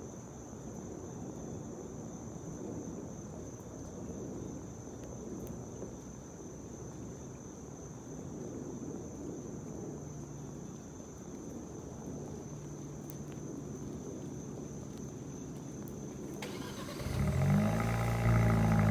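Steady outdoor background with a thin, high insect-like drone. About 17 seconds in, the 2020 Kia Forte GT's 1.6-litre turbocharged four-cylinder starts, catches with a short rise in pitch, and settles into a loud idle through the stock exhaust.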